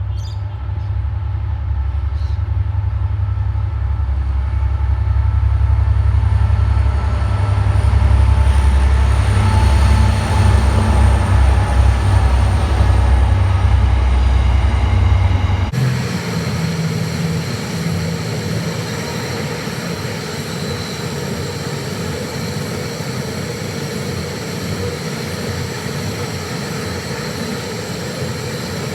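Freight train passing: a deep, steady rumble with engine-like tones that grows louder over the first half. About halfway through the sound changes abruptly to a steadier rolling noise with high ringing tones, with some wheel squeal.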